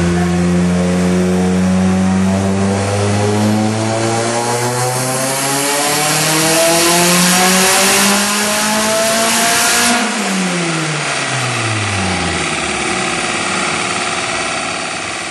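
Turbocharged 2.0-litre 4G63 inline-four of a 2003 Mitsubishi Lancer Evolution fitted with a 20G turbo, making a full-throttle chassis-dyno pull: revs climb steadily for about ten seconds with a hiss building alongside. The throttle then closes, the hiss cuts off and the revs fall away, fading near the end.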